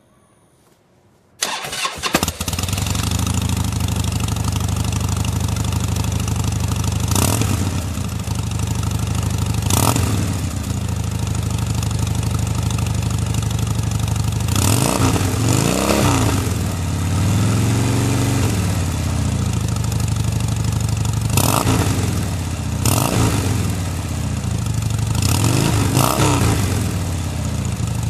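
Harley-Davidson FXDF Fat Bob's V-twin breathing through stock North American-spec mufflers without punch-out modification. It is cranked on the starter and catches about a second and a half in, then idles, with a series of throttle blips that rev it up and let it fall back, one of them a slower, longer rev.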